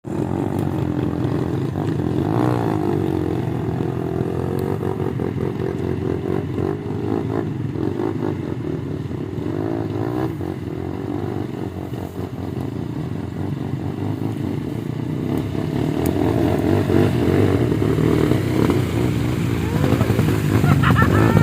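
An engine running continuously, its pitch wavering and rising and falling now and then, growing louder near the end.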